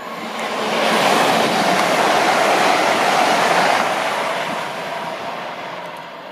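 Hull Trains Class 802 bi-mode express train passing at speed: a rushing noise of wheels and air that swells within the first second, stays loud for about three seconds as the train goes by, then fades as it runs away.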